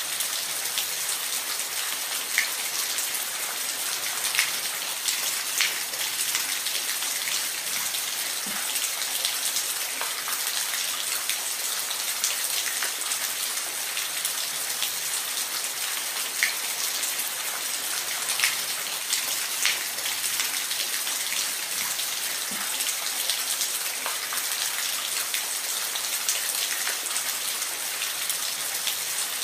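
Steady, even hiss of falling water, with scattered sharp drips and splashes over it.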